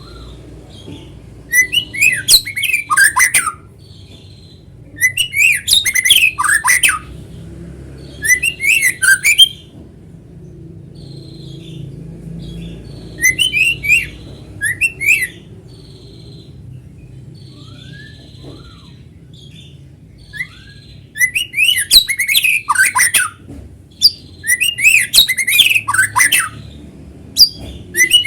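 White-rumped shama (murai batu) singing: loud bursts of quick, varied whistled phrases lasting one to two and a half seconds, separated by pauses filled with a few soft short notes, over faint low background noise.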